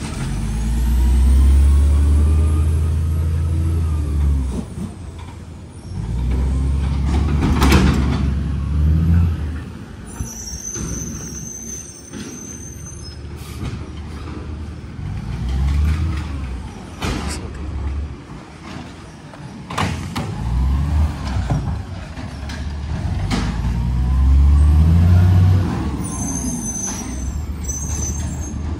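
Diesel garbage truck engine revving up in repeated bursts and dropping back between them, with sharp air-brake hisses and high-pitched squeals now and then.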